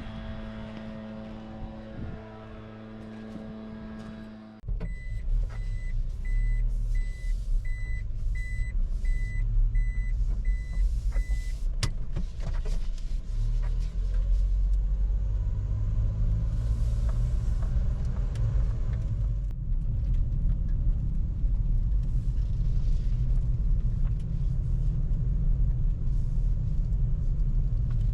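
Mini truck driving: a steady low rumble of engine and road that starts suddenly about five seconds in and carries on. Soon after it starts, a string of short high beeps sounds about once every three quarters of a second for some seven seconds. Before the rumble there is a quieter hum with a few held tones.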